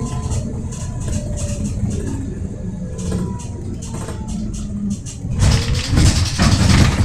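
Volvo B7RLE bus's diesel engine running with a low rumble and a faint whine that shifts in pitch, then a much louder rush of noise from about five seconds in.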